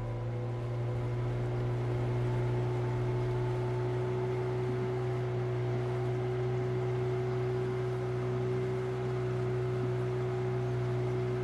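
A fishing boat's motor running steadily at a constant speed, a low hum that holds one pitch throughout.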